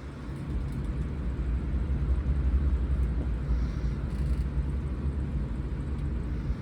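Steady low rumble and hum inside an Odakyu 4000-series electric train car.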